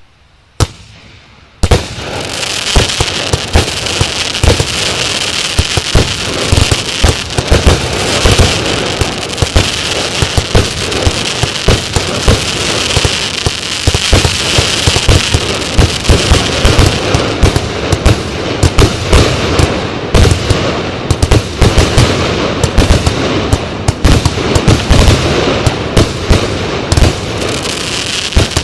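Fan-shaped fireworks battery (Show Box 2) firing. After a short quiet start and a single pop, it goes into a dense, continuous volley of shots and crackling with many sharp reports.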